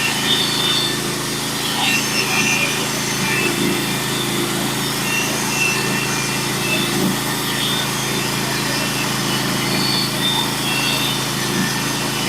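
Norwood HD36v2 portable bandsaw mill with its engine running steadily and the band blade sawing a 1-inch flitch off a pitch pine log.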